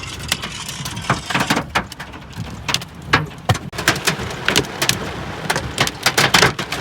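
Hailstones striking hard surfaces: irregular sharp taps and clicks, several a second, over a steady background hiss.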